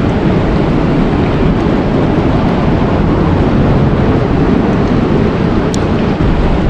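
Loud, steady rushing noise of outdoor nature ambience, heaviest in the low range, with one brief high click near the end.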